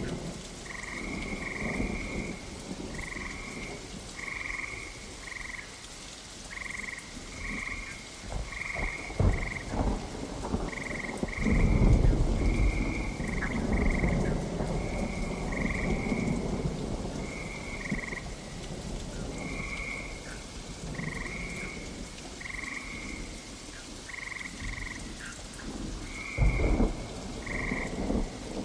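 Steady rain with rolling thunder, the longest and loudest rumble about twelve seconds in and another near the end, while frogs keep up short repeated calls once or twice a second.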